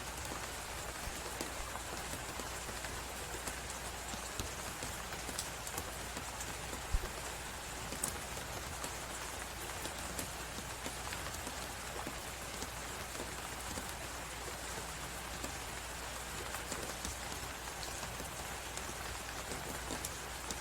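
Steady hiss of a snowstorm and wind with a log fire crackling through it: many small pops and one louder snap about seven seconds in.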